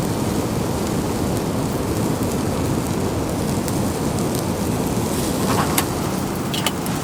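Steady heavy rain, a dense even wash of noise, with a few sharper drips ticking near the end.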